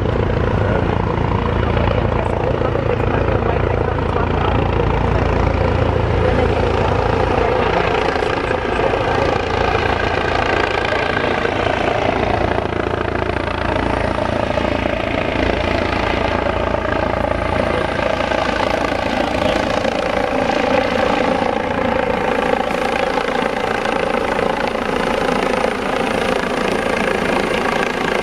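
Helicopter running loud and steady while landing, its turbine whine holding several steady pitches over the rotor's low beat. The low rotor beat is heaviest in the first dozen seconds and eases after that.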